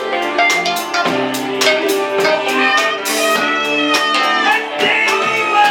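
Live rock band playing, guitar notes over a steady beat on a drum kit.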